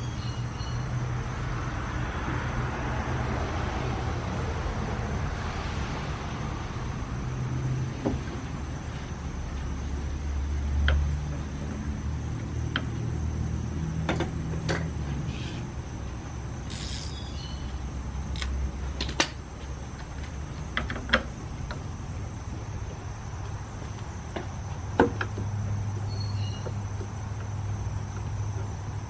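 Low, steady vehicle rumble with a few sharp clicks and knocks scattered through.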